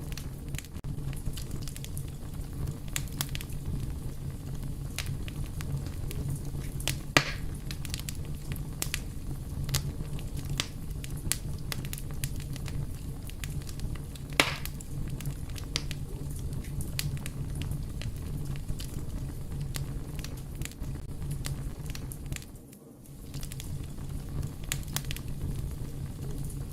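Fire crackling: a steady low rumble of flames under many small scattered snaps, with two louder pops, one about seven seconds in and another about fourteen seconds in. The sound drops away briefly for under a second about two-thirds of the way through.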